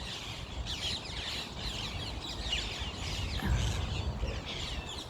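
A large flock of parakeets calling, many short calls overlapping one another, with a low rumble underneath that swells about three and a half seconds in.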